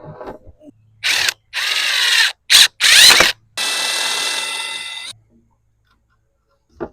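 Power drill run in five short bursts, its motor spinning up and winding down between them, then held for a steady run of about a second and a half before stopping.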